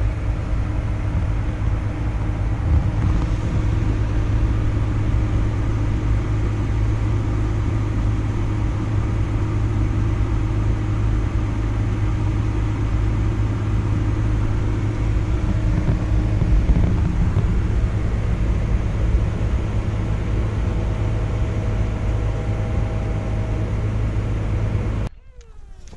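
Vehicle engine running steadily: a loud, even low drone with a constant hum that cuts off suddenly near the end.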